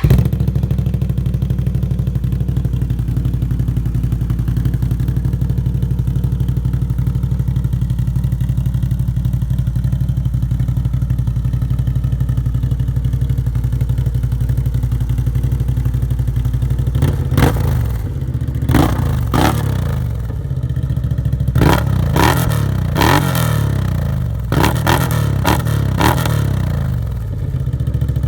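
Can-Am Maverick X mr 1000R's Rotax V-twin idling steadily through an RJWC dual aftermarket exhaust, just after starting. From about two-thirds of the way in it is given a string of quick throttle blips, each rev rising and falling, before settling back to idle.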